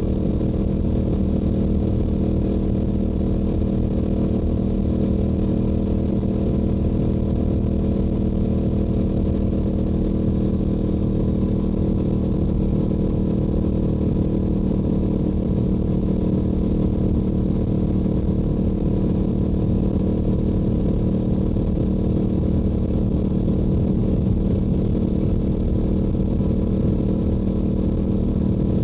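Yamaha YZF-R7's 689 cc parallel-twin engine through its stock exhaust, running at a steady engine speed while cruising on the highway.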